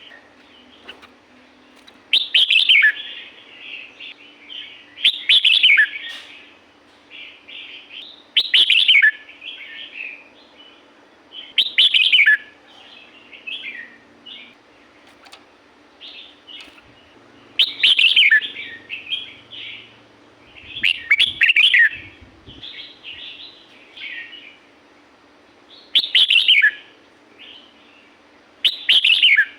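Red-whiskered bulbul singing: short, bright phrases repeated every three seconds or so, each opening with a loud note that drops in pitch and trailing off into quieter chirps.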